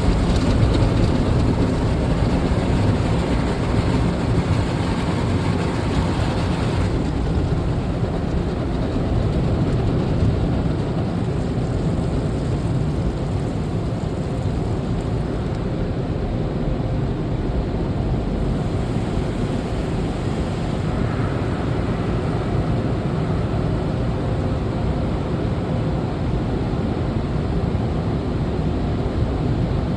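Steady rumbling noise heard from inside a car, heaviest in the low end, with a higher hiss that drops away about seven seconds in.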